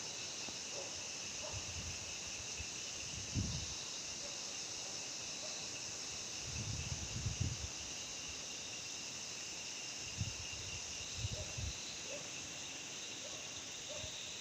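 A steady chorus of insects trilling, with a few low thumps of handling or wind on the microphone scattered through it.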